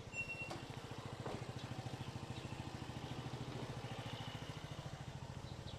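A motor vehicle's engine idling with a steady, fast, even low throb.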